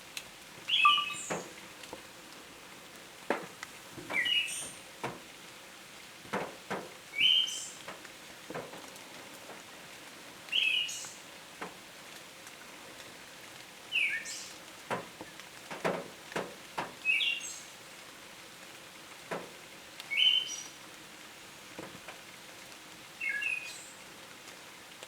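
Siberian thrush singing: a short, simple phrase repeated about every three seconds, each with a thin, very high note. Sharp clicks or ticks sound at irregular intervals between the phrases.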